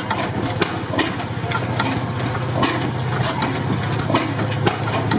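Antique stationary engine running steadily, with a rapid, irregular clatter of sharp clicks over the steady running sound.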